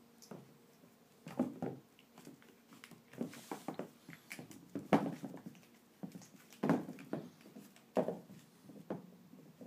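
Shiba Inu puppy and cat at play: irregular soft thumps and scuffles of paws and a toy on the floor, a dozen or so short knocks with quiet gaps between.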